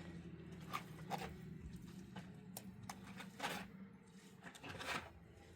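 A few faint scattered scrapes and knocks, one at a time, over a low steady hum.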